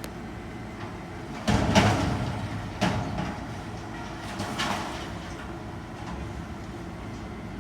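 Garbage truck engine running steadily, with loud metal clanks and bangs about a second and a half in, at about three seconds and near five seconds as a dumpster is emptied into the truck.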